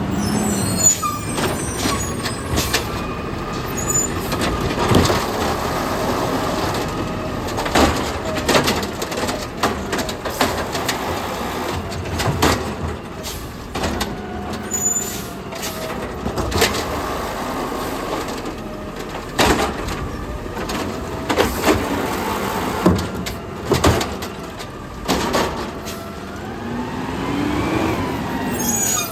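Garbage truck at work: the diesel engine running and revving up and down, with many sharp bangs and clanks throughout and an engine rev climbing near the end.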